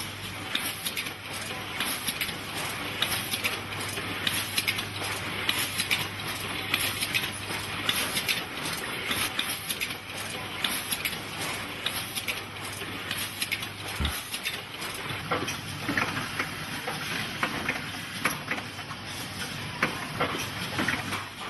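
Automated condom-packaging machinery running, with fast, dense clicking and clattering over a hiss. A low hum underneath ends with a single thump about two-thirds of the way in.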